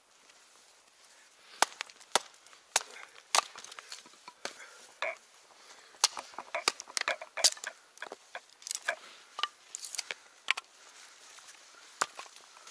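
Dry wood snapping and splintering. From about a second and a half in there is a quick, irregular run of sharp cracks, like sticks being broken or split.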